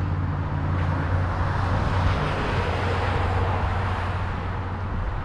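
Road traffic noise: a steady low rumble under a broad rushing hiss that swells about halfway through and then fades, like a vehicle going by.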